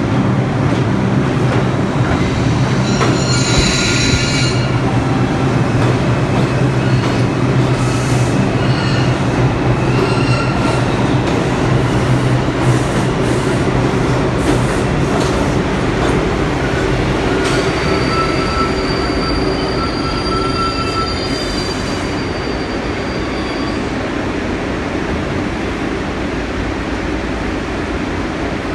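New York City subway train running through the station: a steady loud rumble of wheels on rail with clicks over the rail joints, and wheels squealing in high tones twice, briefly early on and longer about two-thirds of the way through.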